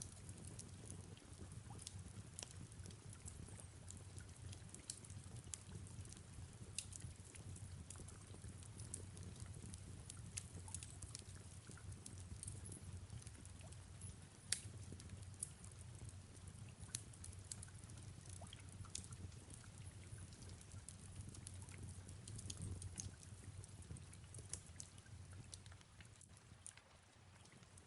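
Faint fireplace crackling, with irregular sharp pops scattered throughout, the loudest about halfway through, over a soft steady rain ambience.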